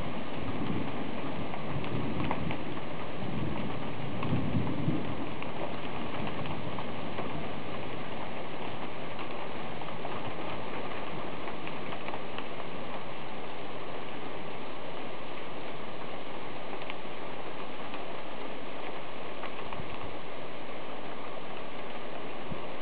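Rain falling steadily, with scattered sharp taps of drops, during a thunderstorm. A low rumble of thunder runs through the first five seconds or so and swells about four to five seconds in, then fades into the rain.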